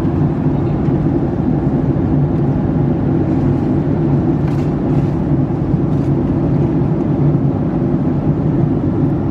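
Steady cabin drone inside a Boeing 757-300 airliner: engine and airflow noise with a low, even hum.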